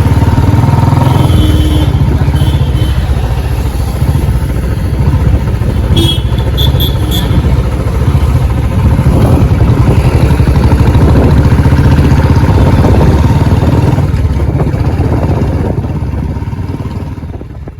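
Royal Enfield Bullet Electra's single-cylinder engine running with a steady low, rapid beat, fading away over the last few seconds.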